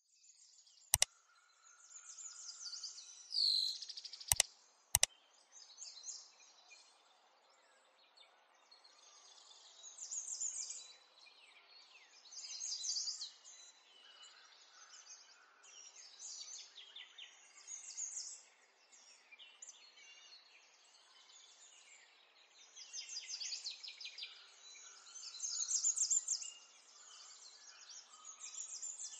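Faint birds chirping in the background in short bursts of rapid repeated notes, with one falling whistle early on. Three sharp clicks in the first five seconds.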